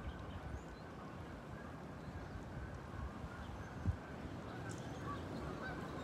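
Faint, scattered bird calls over steady outdoor background noise.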